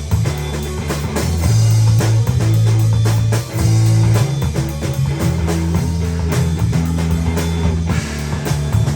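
Live band playing a rock tune on drum kit and guitar over a low line of held notes that changes every second or so.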